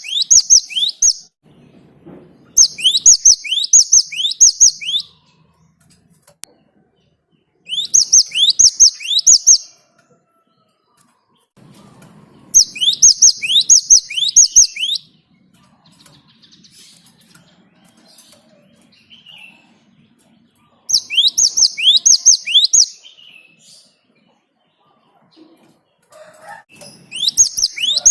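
Great tit (gelatik batu) singing: bouts of about two seconds of quickly repeated, sharp high notes, coming every few seconds with a longer pause in the middle.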